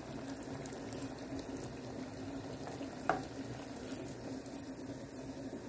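Picarones (sweet-potato and squash dough rings) frying in hot oil, a steady sizzle, with one sharp tap about three seconds in.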